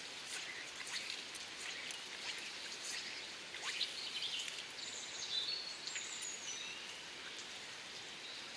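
Light rain pattering on the river surface and leaves: an even hiss with scattered drop ticks. A bird gives a few short calls about five to six seconds in.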